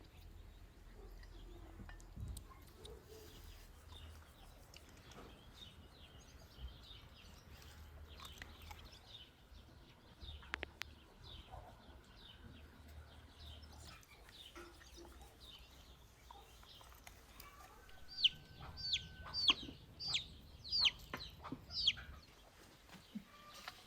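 Domestic chickens calling and clucking, faint and scattered at first, then a quick run of about seven sharp, high, falling calls near the end.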